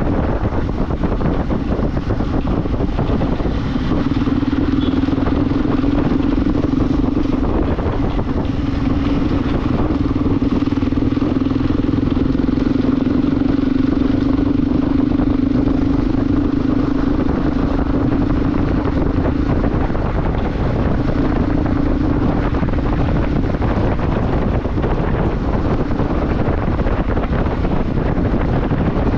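Motorcycle riding at a steady speed: the engine holds a steady drone that eases off briefly a couple of times, under heavy wind noise on the microphone.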